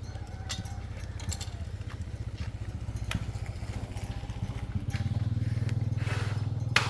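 Motorcycle engine running at idle with a steady pulsing beat, getting louder and slightly higher about five seconds in. A few sharp clicks, the loudest one near the end.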